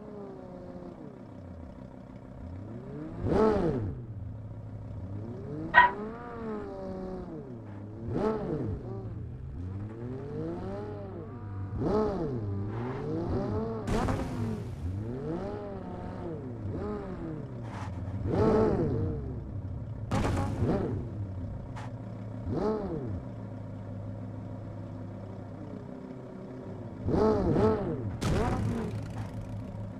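Road traffic: vehicles pass one after another, each engine swelling and fading with its pitch sliding, over a steady engine hum.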